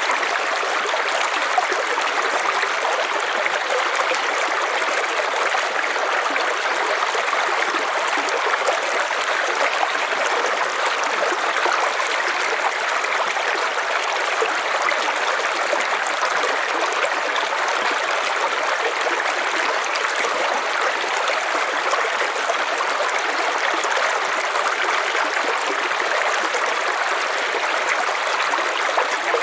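River water flowing, a steady rushing and gurgling with an even level.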